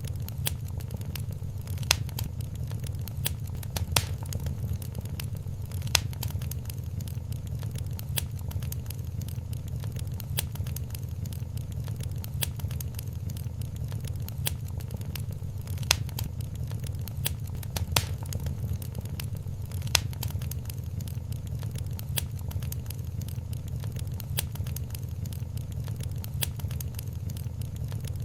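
Wood fire crackling in a fireplace: a steady low rumble of flames under a constant scatter of small crackles, with sharper pops every couple of seconds.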